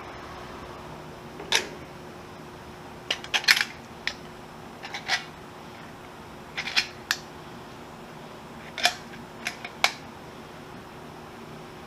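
A dozen or so sharp clicks and taps, some in quick clusters of two or three, over a steady hiss.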